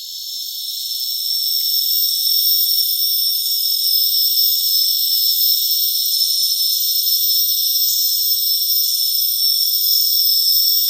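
Rainforest insect chorus: a steady, high-pitched shrill of several unchanging tones that swells over the first second or two and then holds.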